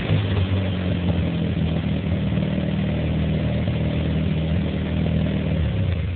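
Mazda RX-7 FC3S's turbocharged rotary engine idling steadily.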